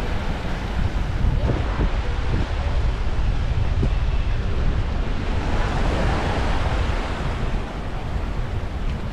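Wind buffeting the microphone over small waves washing onto a sandy beach, with one wave swelling and washing in a little past halfway.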